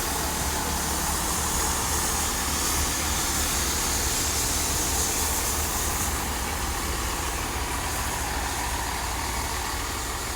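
Class 166 Networker Turbo diesel multiple unit pulling away with a steady low diesel engine rumble and running noise, slowly fading as it draws away.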